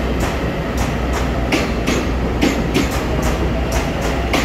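A ten-car EMU900 electric multiple unit rolling along the platform, its wheels clicking over rail joints about three times a second over a steady low rumble.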